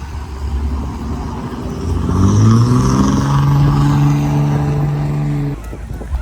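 A truck engine revving up, its pitch rising and then held steady at high revs for about three seconds before it cuts off abruptly.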